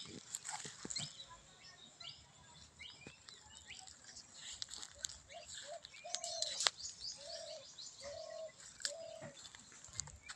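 Birds chirping, with a series of short, low, even hoots repeating in the second half. A few sharp clicks are scattered through, the loudest a little past the middle.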